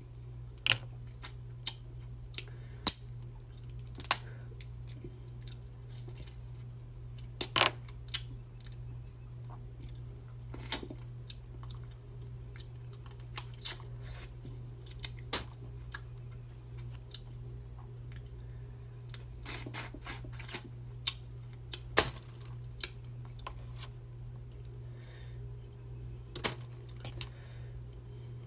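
Eating a seafood boil: chewing with irregular sharp cracks and clicks, the loudest about 4, 7.5 and 22 seconds in, over a steady low hum.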